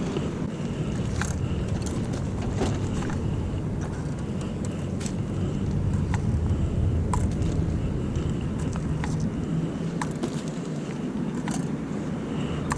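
Outdoor parking-lot ambience: a steady low rumble of vehicle noise, with scattered light clicks and taps over it.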